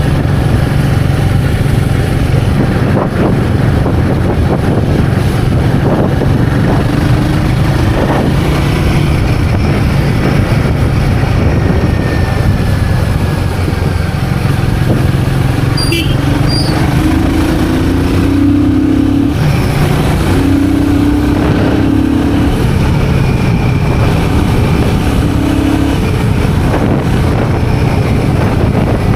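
Royal Enfield Guerrilla 450 motorcycle's single-cylinder engine running steadily as the bike cruises along the road, with a few brief higher tones partway through.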